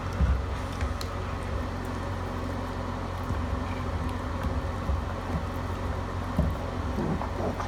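A dog making short, low attention-seeking noises in a hallway, a few near the end, over a steady low hum.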